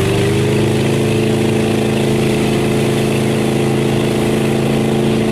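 Speedboat engine running under way, its pitch rising slightly in the first half second and then holding steady.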